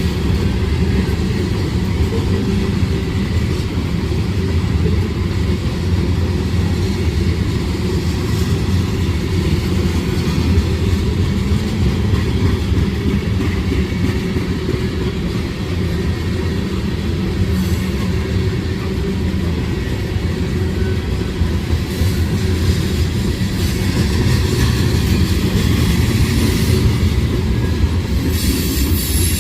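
Freight train rolling past: a steady low rumble of railcar wheels on the track. Near the end a thin, high wheel squeal begins.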